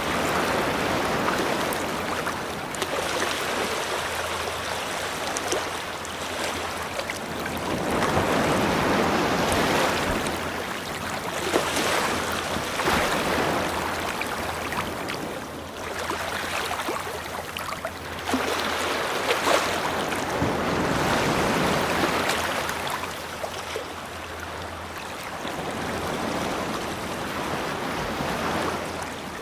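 Ocean waves breaking and washing up a beach: a rushing surge that swells and fades about five times, every several seconds.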